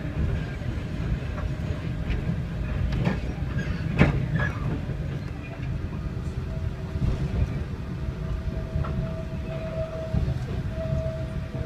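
Metre-gauge electric Centovalli Railway train running, its wheels rumbling on the track, with a few sharp clacks about three and four seconds in. About halfway through, a steady high-pitched wheel squeal sets in and grows as the train rounds a tight curve.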